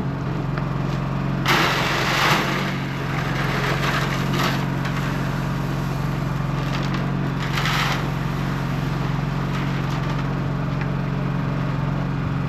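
An engine running steadily at idle, with bursts of scraping and rustling, loudest about one and a half to two and a half seconds in and again near eight seconds.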